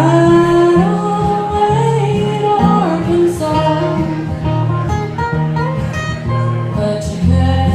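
Live Americana/folk music: acoustic guitar playing chords, with a singer's voice carrying a melody that glides up at the start.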